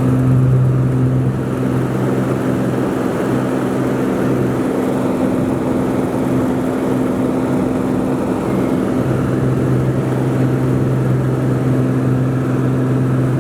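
Socata TB20 Trinidad's six-cylinder piston engine and propeller running as a steady, loud drone with a low hum. The lowest part of the hum fades for a few seconds midway, then returns.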